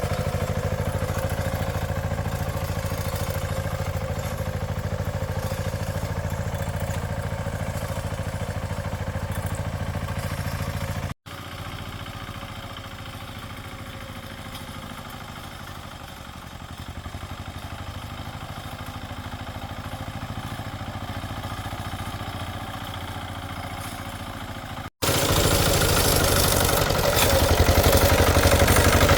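A small engine running steadily. The sound drops out abruptly twice and returns at a different loudness, quieter in the middle stretch and louder near the end.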